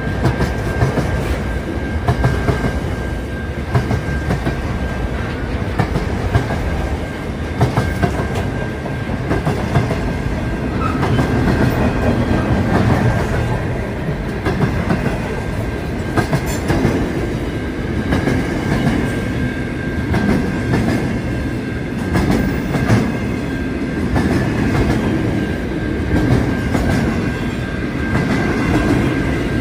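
Freight train wagons rolling past at speed: a steady rumble of wheels on rail with irregular clicking and clacking, and a thin steady high whine over it.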